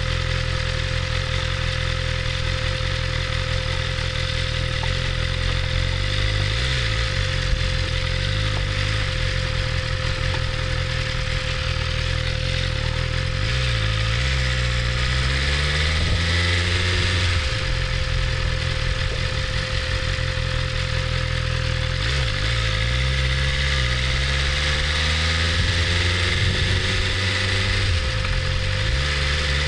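BMW S1000RR motorcycle's inline-four engine running at low revs, its pitch rising and falling a few times as the throttle is worked.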